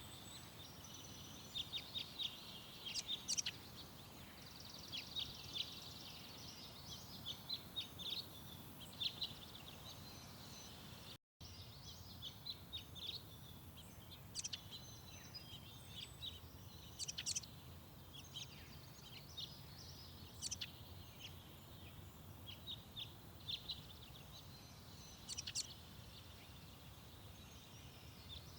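Small garden birds chirping and twittering, many short high calls in quick runs over a faint low background rumble. Everything drops out for a moment about eleven seconds in.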